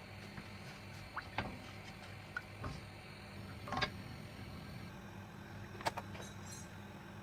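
Scattered light clicks and knocks of kitchen items being handled, roughly one every second or so and loudest near the middle, over a steady low hum.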